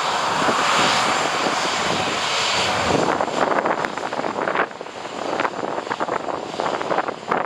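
Jet airliner on landing approach, its engines a loud rushing noise that eases off after about three seconds, with gusts of wind buffeting the microphone.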